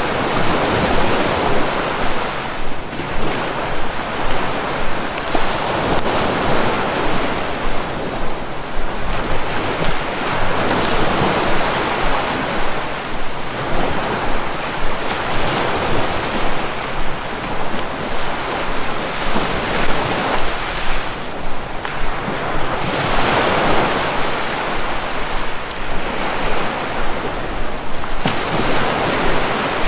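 Sea waves surging in and washing back, a steady wash of noise that swells and fades every few seconds.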